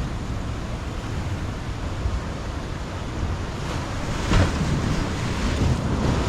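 Sea waves washing in and breaking, a steady surf noise with one louder surge about two-thirds of the way through, and wind buffeting the microphone.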